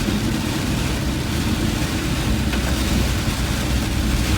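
Car driving on a wet road in the rain, heard from inside: a steady low engine and road rumble under an even hiss.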